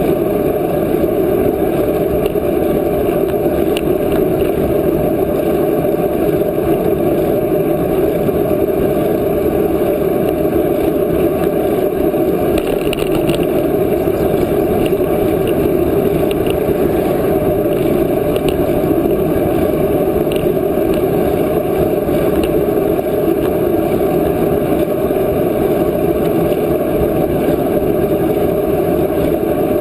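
Wind rushing over the microphone of a camera carried on a moving bicycle: a loud, steady noise.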